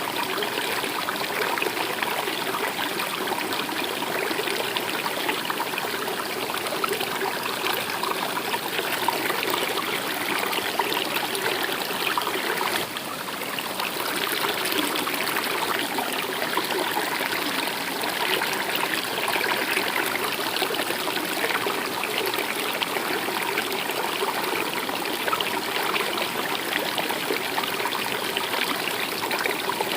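A river or stream running steadily, a continuous babbling and trickling of water, briefly a little quieter about 13 seconds in.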